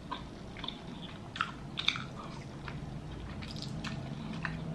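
Close-miked mouth sounds of chewing pork rib meat: irregular wet smacks and clicks.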